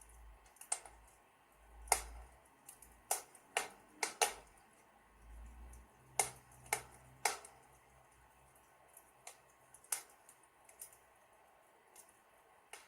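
Wood fire in a fireplace crackling: irregular sharp pops and snaps, bunched in the middle and sparser near the end, over a faint hiss and soft low rumble.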